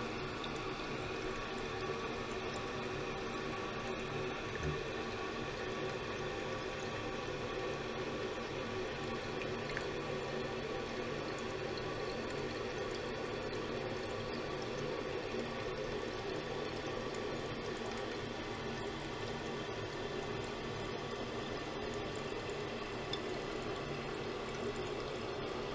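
Toilet tank refilling through a newly installed fill valve: a steady rush and hiss of water running into the tank, part of it going down the refill tube to the bowl.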